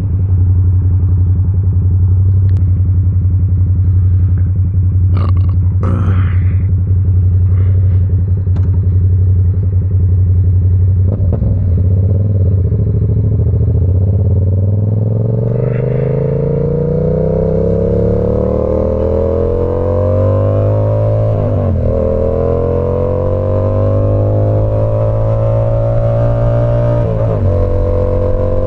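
Yamaha R7's 689 cc parallel-twin through an SC Project CR-T exhaust, running at a steady note with a few short clicks, then accelerating from about twelve seconds in. The pitch climbs and drops back twice near the end as it shifts up through the gears.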